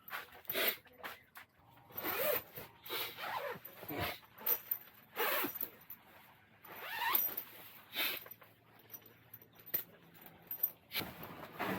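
A zipper being pulled open or shut in a series of quick, irregular strokes.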